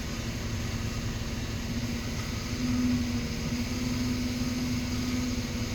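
Diesel engine of a Cat 725C articulated haul truck running steadily, heard from inside the cab as a constant low drone. The note swells briefly about two and a half seconds in.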